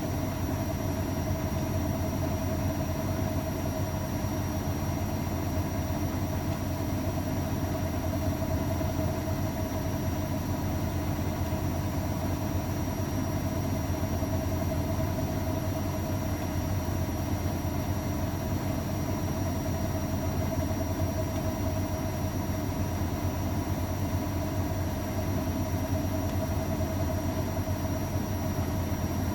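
Old AEG Öko-Lavamat 693 washing machine running steadily: an even motor hum with a constant mid-pitched whine, and no change in speed.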